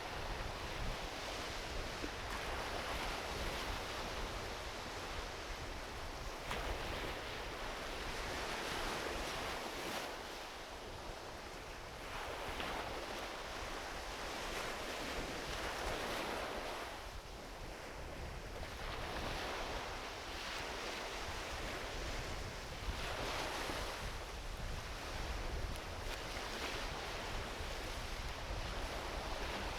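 Small ocean waves washing onto a beach, the surf swelling and easing every few seconds, with a low rumble of wind on the microphone.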